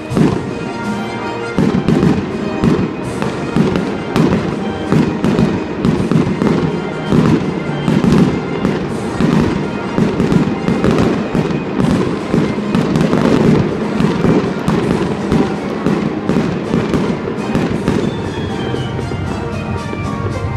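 A fireworks display: a rapid, continuous barrage of shells bursting, several bangs a second, growing denser about a second and a half in. Music plays underneath.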